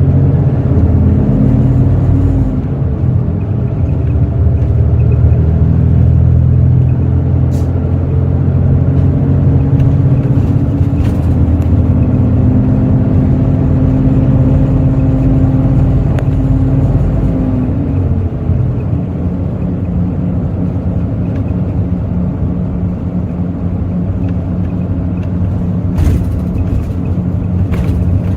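Hino J08E-VD 7.7-litre turbo-diesel of a Hino intercity bus, heard from on board, running under load with its pitch rising slowly, then easing off about 17 seconds in to quieter, steady running. A few light clicks come through.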